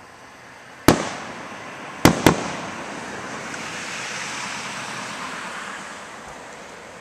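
Fireworks bursting: one sharp bang, then two more in quick succession about a second later, followed by a hiss that swells and dies away over a few seconds.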